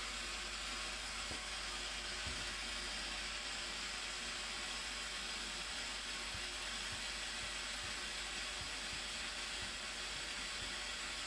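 Steady rushing of a large waterfall, the Blue Nile Falls, as an even unbroken hiss with no change in level.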